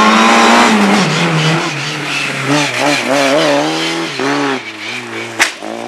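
Racing car engine at high revs, its pitch falling about a second in as it comes off the throttle, then a series of quick rises and falls in pitch from throttle blips and gear changes. A single sharp click near the end.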